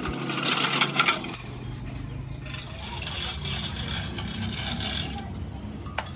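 Metal clinking and rattling, as of tools or metal parts being handled, with a sharp click near the end.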